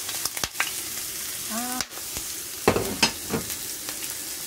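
Chopped red onion and garlic sizzling in hot olive oil in a frying pan, a steady hiss. A few knocks and clicks sound over it, the loudest about three seconds in.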